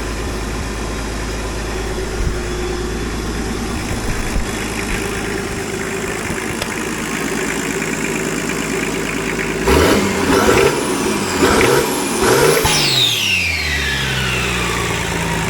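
Nissan RD28 straight-six diesel, freshly brought back to life, idling steadily. About ten seconds in it is blipped through three or four quick revs, then falls back to idle.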